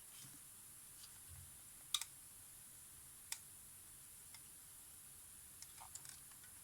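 A few faint, sharp clicks and ticks of small tools against the camera's parts during desoldering, the loudest about two seconds in and another a little after three seconds, over a steady faint hiss.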